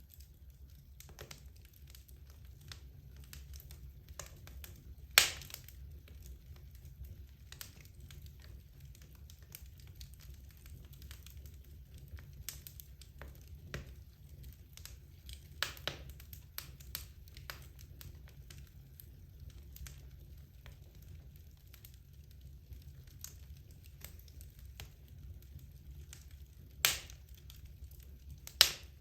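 Wood logs burning in a fireplace, crackling with many small irregular ticks over a steady low rumble. Several sharp loud pops stand out: one about five seconds in, a smaller one around the middle, and two near the end.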